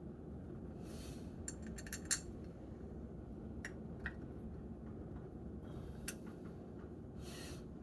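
Small metal parts of a fuel transfer pump clicking and clinking as they are handled and fitted by hand: a quick cluster of clicks about two seconds in, then a few single clicks, over a steady low hum.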